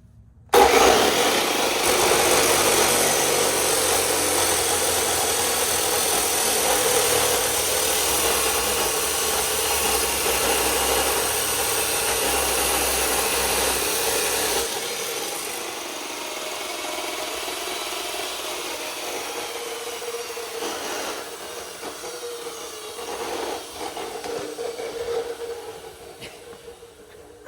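Electric power saw starting up abruptly and cutting through a marked steel bar, a loud steady whine with a harsh hiss of the cut; about halfway through it eases to a lower, more uneven level until it stops near the end.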